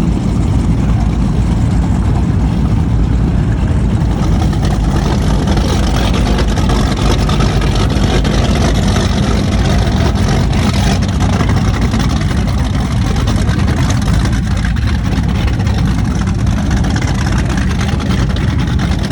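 Cigarette offshore powerboat engines running loud and steady at speed.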